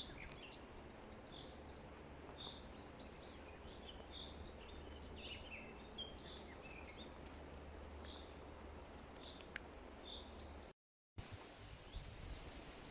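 Small songbirds chirping and twittering faintly over a steady low rumble and hiss. About eleven seconds in, the sound drops out for a moment and comes back as hiss alone, without birdsong.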